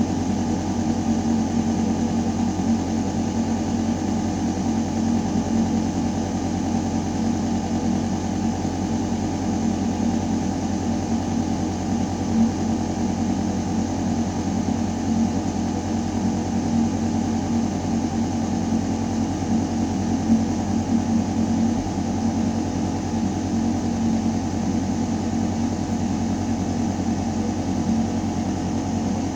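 Building ventilation system running: a steady mechanical hum with air rushing through metal ductwork, a deep drone with a stronger tone in the low middle, unchanging throughout.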